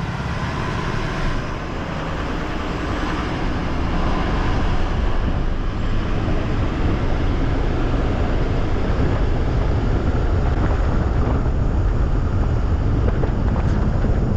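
Steady road and wind noise from a pickup truck driving at highway speed, a deep rumble with a hiss on top. It grows louder about four seconds in, then holds steady.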